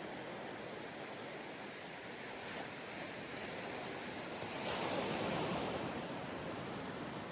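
Sea waves breaking on a sandy beach, a steady wash of surf with one wave swelling and breaking about five seconds in.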